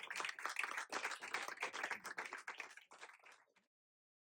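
Applause: many hands clapping, thinning out and cutting off abruptly about three and a half seconds in.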